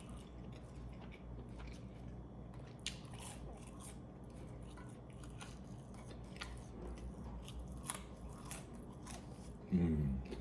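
Close-miked chewing of a mouthful of McDonald's Double Big Mac: scattered soft, wet mouth clicks over a low steady hum. A short vocal sound comes near the end.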